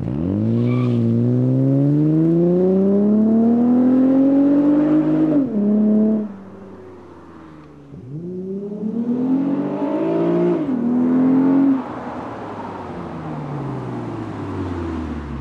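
2005 Acura TL's V6 engine through an aftermarket J-pipe, test pipe and quad exhaust, pulling hard twice with the pitch climbing steadily and each pull ending in a sudden drop, then falling in pitch as the car slows near the end.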